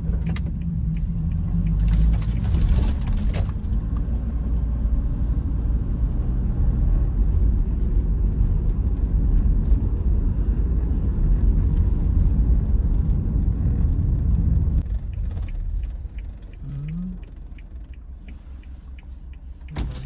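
Toyota Hiace van running, a steady low engine and road rumble that drops sharply about fifteen seconds in. A single knock near the end.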